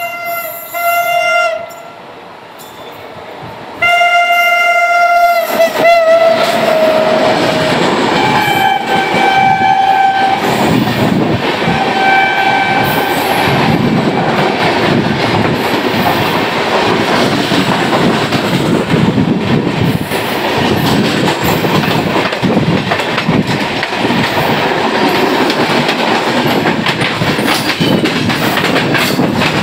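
Two Indian Railways passenger trains crossing on adjacent tracks, heard from inside one of them. Locomotive horns sound in several blasts over the first dozen seconds, one sliding down in pitch. Then the passing coaches' wheels rumble and clatter steadily.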